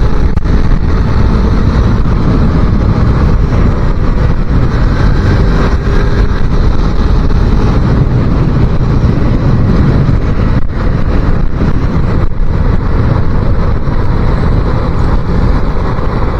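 A 250cc motorcycle engine running steadily at road speed, mixed with heavy wind rush on the microphone.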